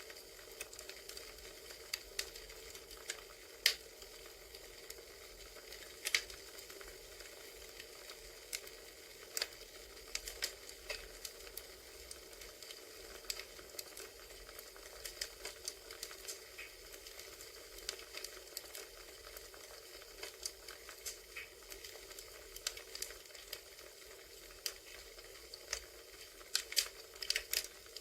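Crackling campfire ambience: a steady hiss of burning wood with irregular sharp pops and snaps, a few clustered near the end.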